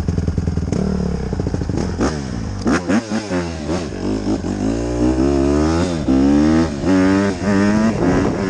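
Motorcycle engine running steadily, then revving up and down repeatedly from about a second in, its pitch climbing and falling again and again.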